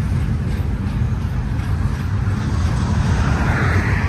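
Double-stack intermodal train of well cars rolling past, with a steady low rumble of wheels on rail and a hiss that swells slightly about three seconds in.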